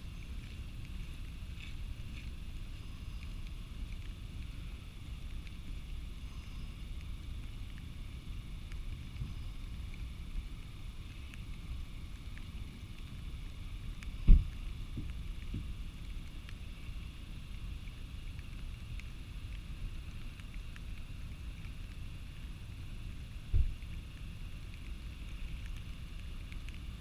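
Steady low rumble of the Skógafoss waterfall, mixed with wind buffeting the microphone. Two sharp low thumps cut in, one about halfway through and a smaller one near the end.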